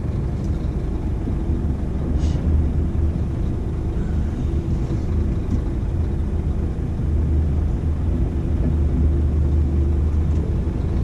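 Dump truck's diesel engine running steadily, a low even hum heard from inside the cab, with a brief faint click about two seconds in.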